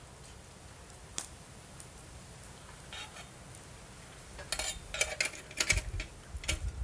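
Wood campfire crackling: a single sharp pop about a second in, then a quick run of crackles and pops in the last couple of seconds, with a low rumble underneath near the end.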